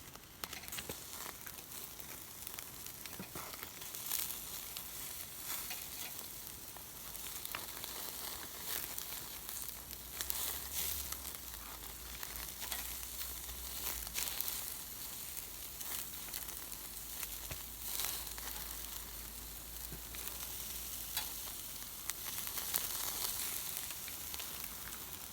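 Meat sizzling as it grills: a steady hiss with scattered short pops and spits.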